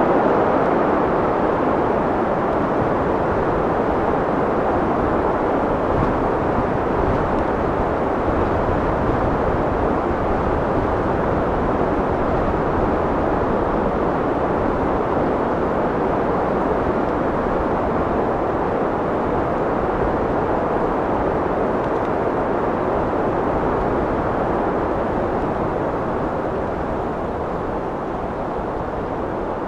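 Wind blowing steadily: a continuous rushing noise without distinct gusts, easing a little near the end.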